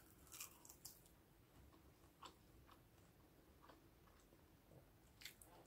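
Faint chewing and wet mouth clicks close to the microphone, a few soft crackles near the start and again near the end, over near silence.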